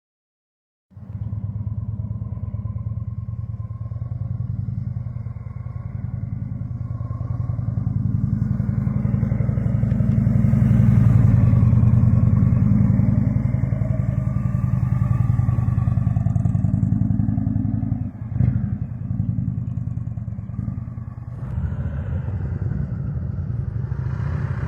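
Motorcycle engine running steadily at low revs, starting abruptly about a second in and building a little louder towards the middle, with a brief dip and a single knock later on.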